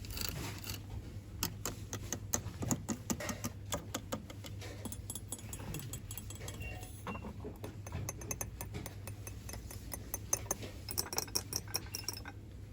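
Rapid irregular tapping, clicking and light clinking of small hard objects being handled for ASMR, over a steady low hum.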